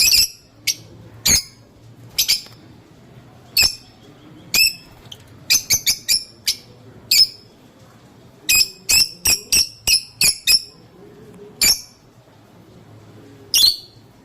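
Lovebird giving short, sharp, shrill chirping calls, one at a time with gaps, and in two quick runs of several calls in a row around the middle.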